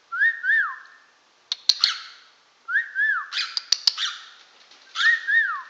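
Cockatiel whistling a short two-note phrase, each note rising then falling, three times over, with scratchy chirps and clicks in between.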